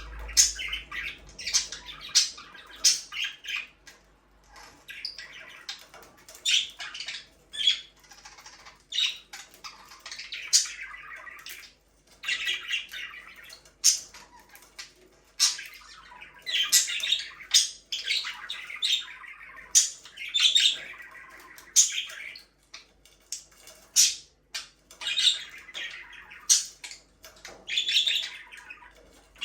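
Budgerigars chirping and warbling, with short squawks and sharp clicks, in irregular bursts with brief pauses.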